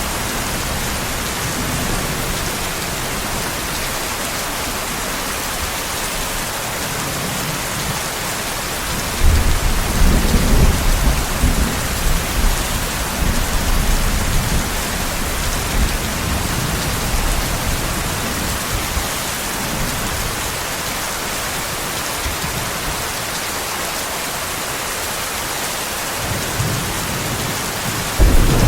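Steady heavy rain hissing, with a deep roll of thunder rumbling in about nine seconds in and slowly dying away, and another rumble building near the end.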